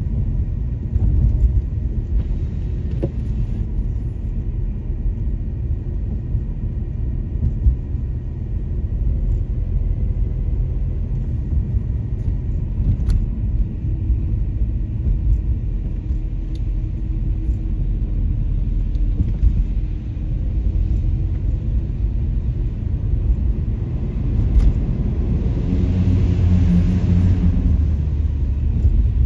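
Car road noise heard from inside the cabin while driving: a steady low rumble of engine and tyres, growing louder with more hiss near the end.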